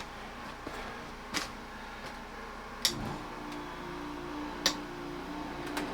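Room air conditioner being switched on: a few sharp clicks from its controls, then about three seconds in the unit starts with a low thump and settles into a steady hum.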